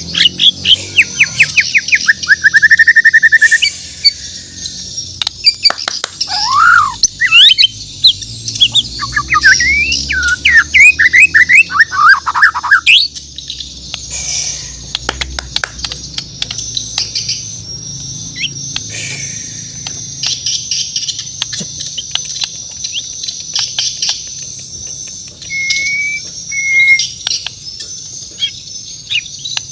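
Borneo white-rumped shama (murai batu) singing: loud, varied phrases of rapid notes, a buzzy trill and rising and falling whistles for the first dozen seconds, then quieter scattered chirps and two short whistles near the end, over a steady high-pitched chatter in the background.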